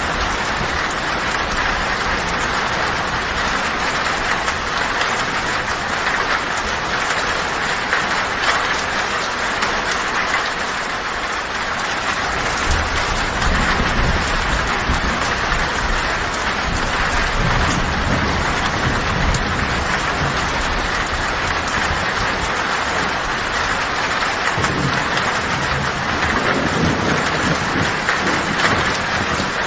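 Heavy rain falling steadily on a tin roof, with low thunder rumbling from about twelve seconds in and again near the end.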